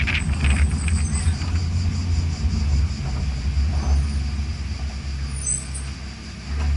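A vehicle engine running steadily with a low rumble, easing off briefly near the end.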